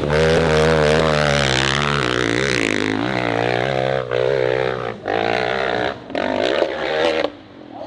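Dirt bike engine at high revs, its pitch wavering constantly as the throttle is worked. In the second half it briefly cuts out several times, then drops away near the end.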